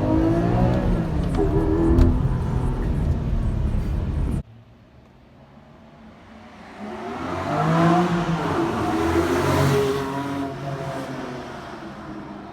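Porsche Cayman GTS's 4.0-litre naturally aspirated flat-six. At first it runs close by with a loud low rumble, which cuts off abruptly about four seconds in. Then the car accelerates hard with climbing revs, loudest about eight to ten seconds in, and fades away.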